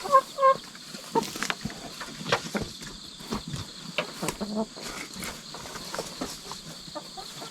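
Hen giving two short clucks at the start, then many small scratching and pecking clicks on the coop floor. Insects chirr steadily underneath.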